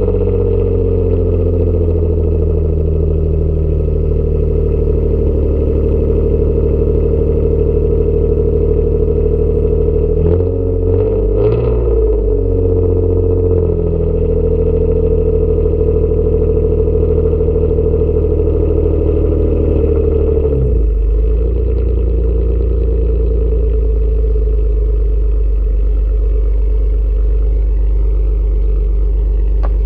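Exhaust of a Nissan Altima SE-R's V6 idling steadily after starting. The note wavers briefly about ten seconds in and drops to a lower, settled idle about twenty seconds in.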